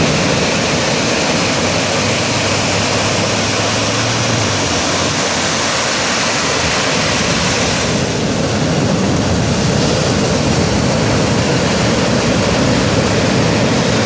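Loud, steady rush of surf breaking on a beach, with no separate splashes standing out.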